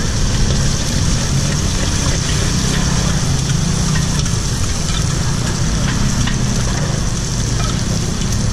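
Pad thai noodles and an egg sizzling in a hot wok, with a few light scrapes and taps of the metal ladle, over a steady low rumble.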